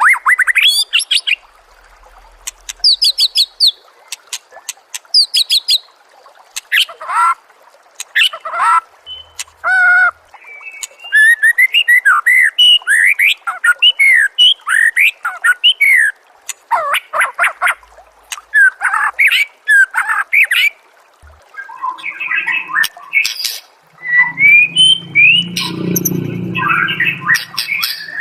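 Recorded songbird calls played as a training track: a varied string of loud whistles, rapid trills, chirps and sharp clicks, changing every second or two. Near the end comes a harsher, fuller call.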